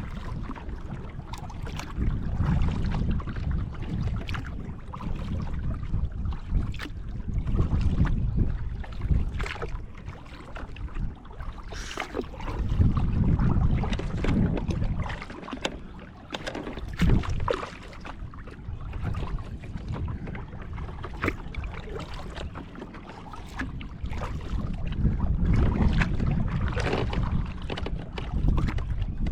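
Kayak paddling: paddle blades splashing and dripping with short sharp clicks, under gusts of wind rumbling on the microphone.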